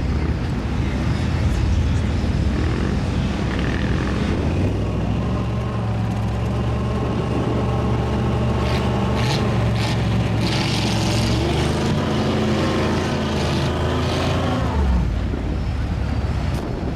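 A big mud truck's engine running at high revs. For about ten seconds it holds a steady pitch, then falls away a couple of seconds before the end.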